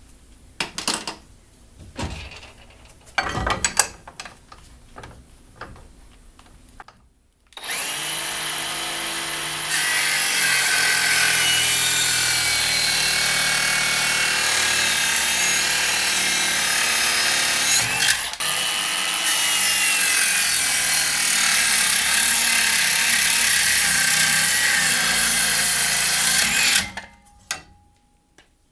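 Handheld power tool cutting sharp edges off the rack, after a few handling knocks. It starts about seven seconds in, gets louder as it bites into the material about two seconds later, dips briefly once, and stops about a second before the end.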